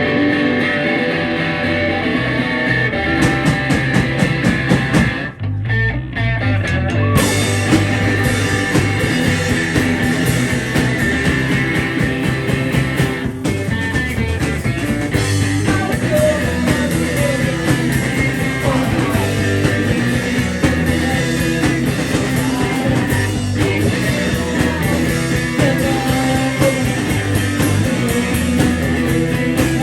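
Live rock band playing loudly with electric guitar, bass and drums, pausing for a moment about five seconds in before the full band comes back in.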